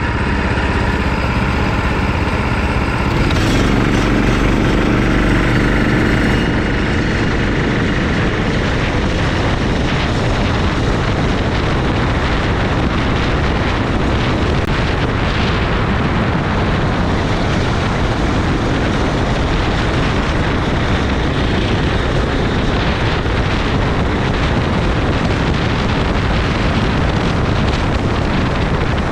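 Racing kart engine running at speed, heard from on board, with heavy wind and track noise on the microphone. A clear engine note is heard for the first few seconds, then it is mostly buried under a steady rushing noise.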